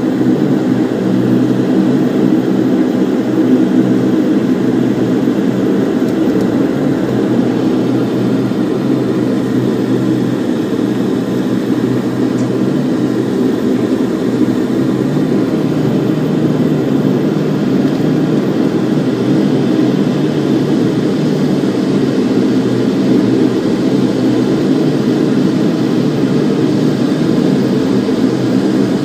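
Bombardier Dash 8 turboprop engines and propellers droning steadily, heard from inside the passenger cabin while the aircraft taxis after landing. The drone holds several steady low tones without change.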